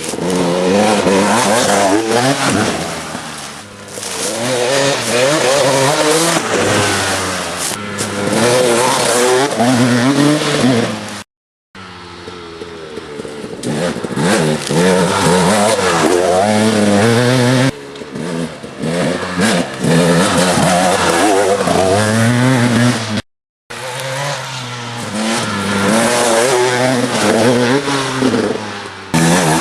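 Dirt bike engines revving up and down repeatedly as they are ridden, the pitch rising and falling with the throttle. The sound cuts out abruptly a few times.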